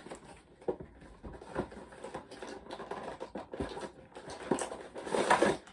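Action figure packaging being opened by hand: scattered clicks and crinkles of plastic and cardboard, with a louder rustle about five seconds in.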